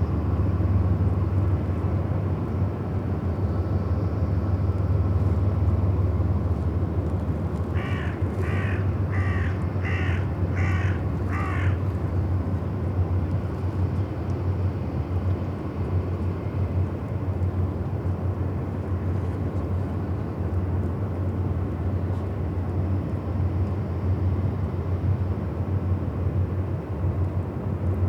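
A crow caws six times in quick succession about eight seconds in, over a steady low rumble.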